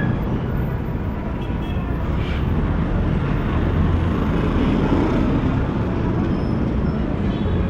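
City street traffic: engines and tyres of passing cars blending into a steady low rumble.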